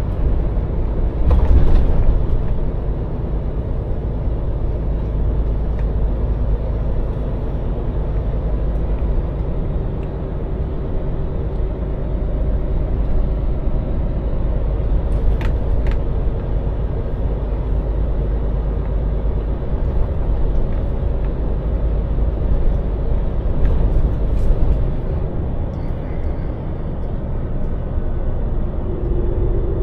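Scania lorry running on the road: steady low engine rumble and road noise, with a brief louder swell about two seconds in and a couple of short clicks about halfway through.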